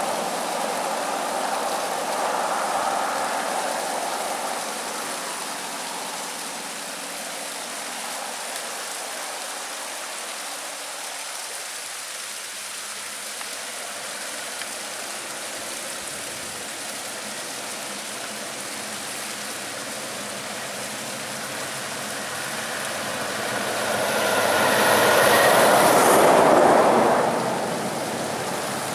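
Steady rush of a small seasonal waterfall, with highway traffic: a vehicle passing and fading away in the first few seconds, and another passing loudly near the end, swelling up and dying away within about five seconds.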